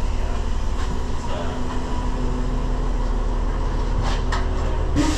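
A moving vehicle running with a steady low rumble and hum, faint indistinct voices under it, and a few sharp clicks near the end.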